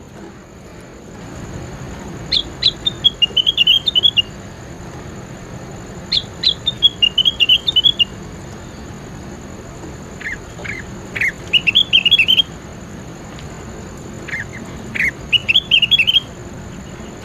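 A songbird singing four short phrases a few seconds apart. Each phrase opens with a few sharp high notes, the later ones with lower notes first, then runs into a quick, twittering string of high notes, over a steady background hiss.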